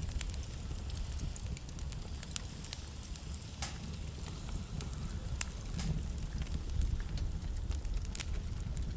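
Wood fire burning in a fireplace: a steady low rumble of flames with irregular sharp crackles and pops from the burning logs, a few louder pops standing out.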